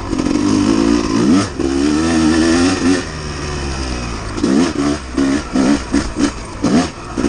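Dirt bike engine running under way, the revs rising about a second in, then several quick blips of the throttle up and down in the last few seconds.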